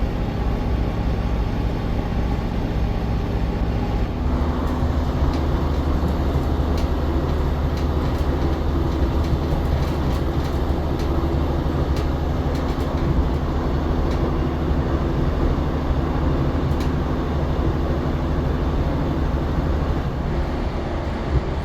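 Diesel passenger train running, heard from inside the carriage: a steady low engine drone with rail noise. About four seconds in the engine note shifts to a deeper, heavier drone, with scattered light clicks from the track.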